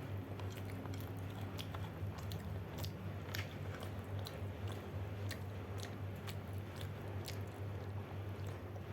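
A person chewing and biting pizza close to the microphone, with irregular small mouth clicks, over a steady low hum.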